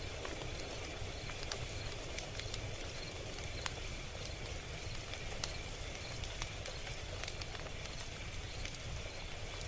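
Log fire crackling: irregular sharp pops and snaps, a few a second, over a steady low rumble of burning wood.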